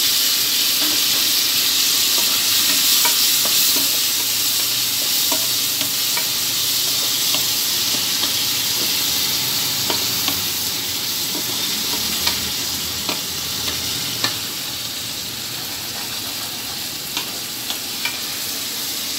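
Chopped tomatoes and small onions sizzling in hot oil in a non-stick kadai while a spatula stirs them, scraping and knocking the pan in scattered sharp ticks. The sizzle eases slightly toward the end.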